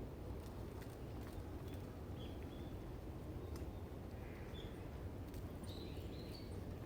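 Outdoor ambience: a steady low rumble with a small bird giving short, high chirps several times, mostly in the second half, and a few faint clicks.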